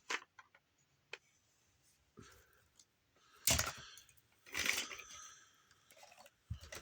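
Hard plastic toy pieces being handled: a couple of sharp clicks, then two louder stretches of clattering and rubbing, with a low knock near the end.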